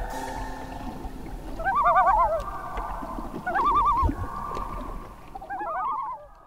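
Bird calls: three bouts of rapidly wavering, warbling calls with a few voices overlapping, over faint sustained tones, fading away near the end.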